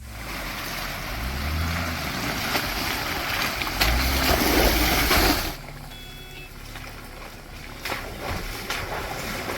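2019 Jeep Wrangler Rubicon's 3.6-litre V6 revving as the Jeep drives through a creek, with water splashing and rushing. The noise is loudest for the first five and a half seconds, then drops suddenly to a steady rush of flowing water.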